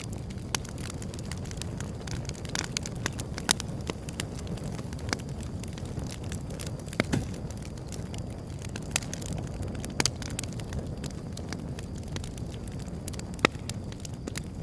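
Wood fire burning with a steady low rumble and irregular crackles and sharp pops, several of them louder than the rest.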